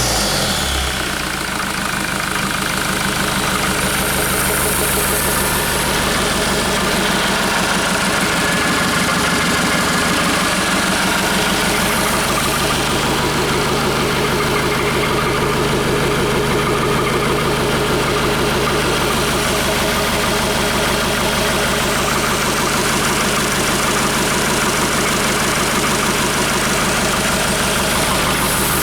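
Hyundai/Kia D4CB four-cylinder diesel engine idling steadily.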